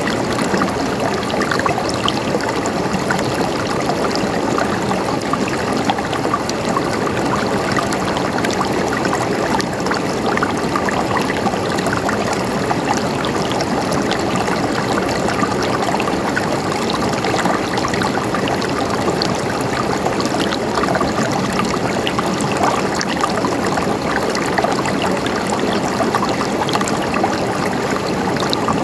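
Stream water flowing and gurgling over rocks in a steady, even rush with constant small splashes.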